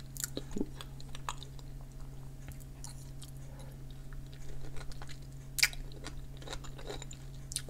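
A person chewing a mouthful of food with the mouth closed: soft, scattered mouth clicks and smacks, one of them louder about five and a half seconds in, over a low steady hum.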